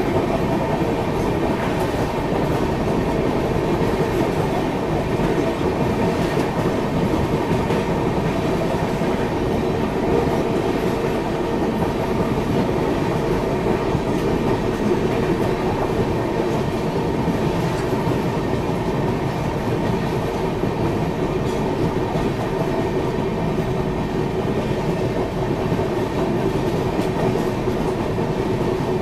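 Navjeevan Express passenger train running over a river bridge: a steady rumble of steel wheels on the rails, with the clatter of the wheels over rail joints.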